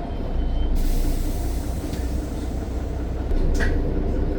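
Mercedes-Benz Citaro bus running under way, a steady low engine drone and rumble with a hiss that joins about a second in and a brief click near the end.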